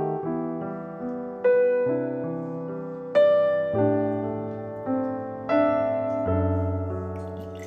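Background piano music: slow, soft chords, a new chord struck about every second and a half and left to ring away.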